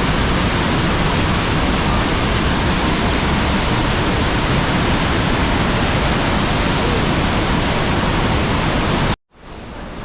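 Rushing water of the Rhine Falls waterfall, a loud steady noise that cuts off abruptly about nine seconds in.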